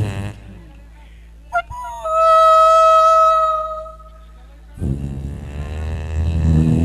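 A man's vocal imitation of a bus: a steady, horn-like tone held for about two seconds, then a low, droning engine imitation starting near the end.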